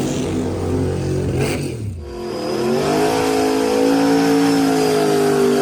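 Drag-racing vehicle engines running hard. The first holds a steady high pitch and drops off about a second and a half in. Then a second engine climbs in pitch and holds steady at speed.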